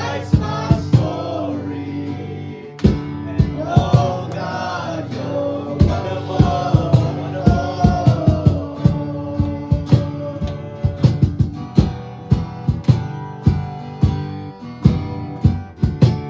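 Worship band music: guitar with drum hits throughout, and a pitched melody line over it in roughly the first half.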